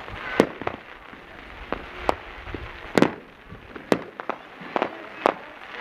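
Fireworks exploding: a string of about nine sharp bangs at irregular intervals, the loudest about three seconds in.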